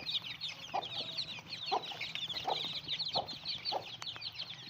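Chicks peeping continuously in a dense, high-pitched chatter, while the mother hen clucks in short low clucks about every half second to second.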